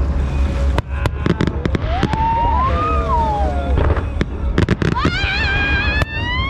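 Aerial fireworks exploding: a rapid run of sharp bangs and crackles over a steady low rumble, with wavering, gliding pitched tones over the top.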